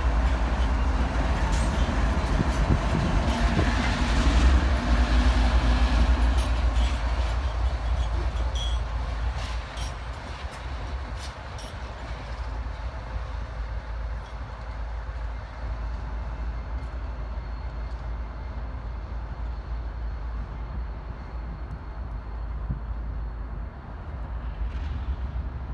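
A train rolling past on the tracks, with sharp clicks of wheels over the rail joints. It is loudest in the first few seconds, then fades away after about nine seconds, leaving a low rumble.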